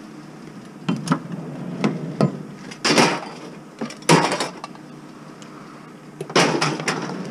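Knocks and clatters of scrap items being picked up and handled: a few separate hits, loud clusters about three and four seconds in, and another burst of clattering near the end.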